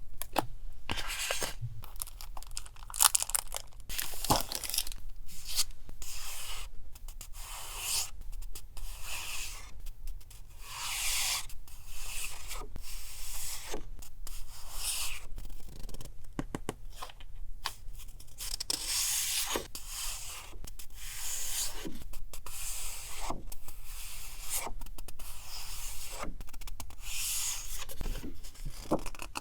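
Paper being torn and handled by hand: a run of short tearing and rustling sounds with small taps and clicks in between.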